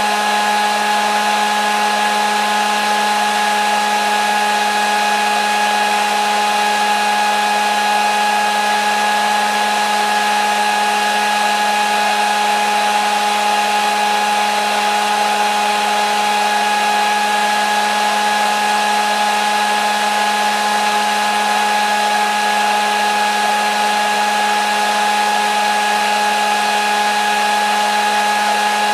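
Hair dryer running continuously at a steady speed: an even rushing hiss of air with a steady motor hum and whine, with no change in pitch or level.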